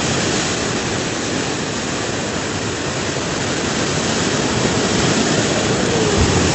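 Fast-flowing floodwater rushing steadily, a dense, unbroken noise of water.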